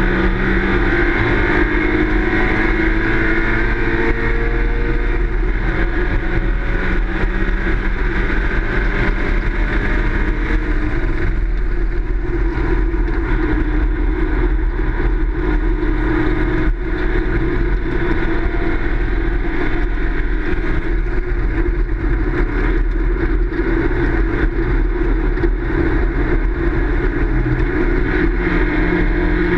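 Race car engine running steadily on track at speed.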